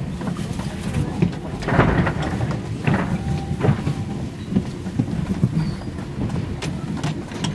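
Running sound inside a JR 485 series electric train car: a steady low rumble of the wheels on the track, with sharp clacks as the wheels cross rail joints.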